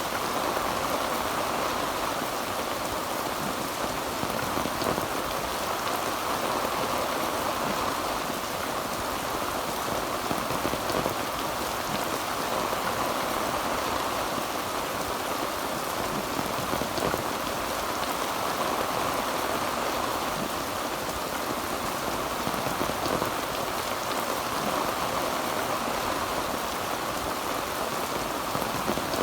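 Heavy rain falling on a tin roof, a steady, dense patter with no thunder.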